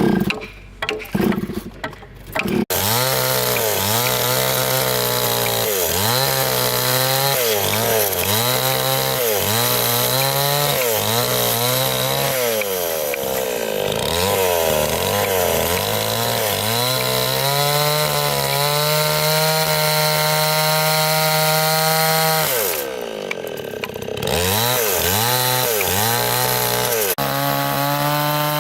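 Chainsaw cutting wood, its engine pitch dipping and recovering about once a second as it works through the cut, then held steady at high speed. It drops briefly a few seconds before the end, then runs again. A few sharp knocks of wood being struck come just before the saw starts.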